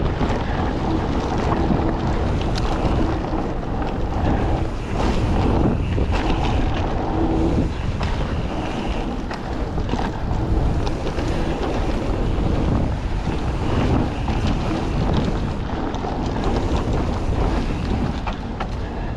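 Wind buffeting an action camera's microphone as a mountain bike rolls along a wet woodland trail, with tyre noise and frequent knocks and rattles from the bike over rough ground.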